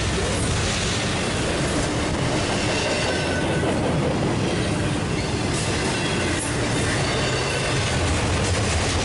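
CSX double-stack intermodal freight train passing close by: a steady rumble of steel wheels on rail as the loaded well cars roll past.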